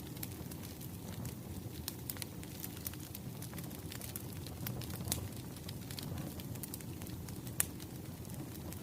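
Wood fire crackling: a steady low rumble with frequent irregular pops and snaps, one sharper pop near the end.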